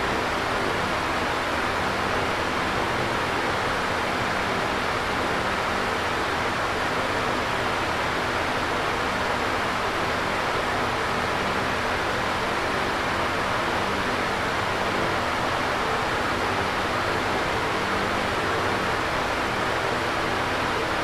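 Electric fan running steadily: an even rush of moving air with a faint steady hum underneath.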